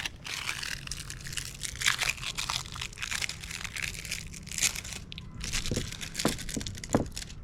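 Plastic battery packaging crinkling and crackling as AA batteries are worked out of it by hand: a dense run of irregular crackles and small tearing sounds.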